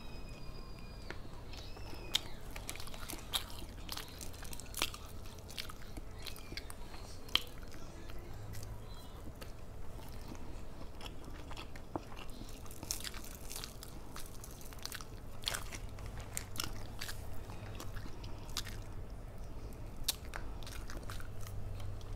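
Close-up chewing and biting of fried flounder, with sharp, irregular crunches throughout, over a low steady hum.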